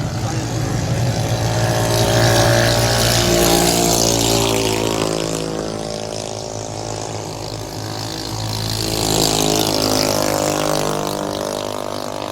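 7.5 hp clone small engine running, its pitch climbing and falling twice as it revs up and eases off.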